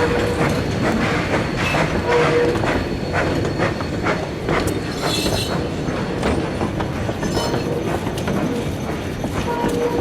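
Steam locomotive K 88, an 1870s Rogers-built engine, running under way: a steady rumble and clatter with many irregular knocks and clanks, and a brief high-pitched squeal about five seconds in.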